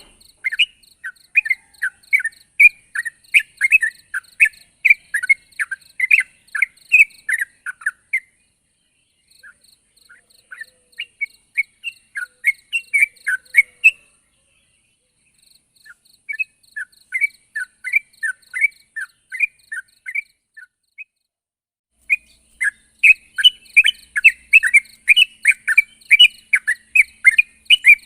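Yellow-vented bulbul (trucuk) singing vigorously, a fast run of short bubbling chirps of about three to four notes a second. The song comes in four bouts with short pauses between them, over a faint steady high buzz.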